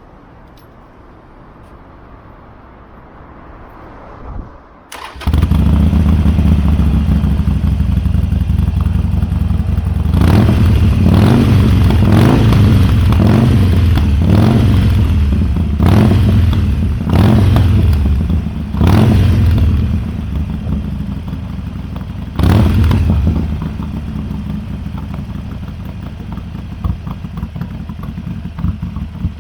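Harley-Davidson Sportster V-twin with Chrome Works slip-on mufflers starting about five seconds in, then running with a deep exhaust note. It is given several quick throttle blips before settling back to idle.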